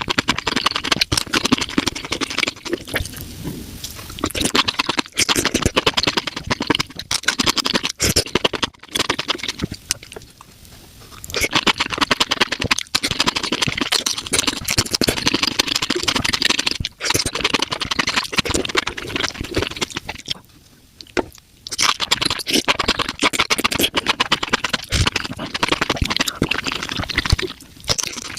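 Close-miked mukbang eating sounds, sped up: rapid wet chewing, crunching and slurping of spicy mushrooms, a dense run of clicks and smacks that drops away briefly twice.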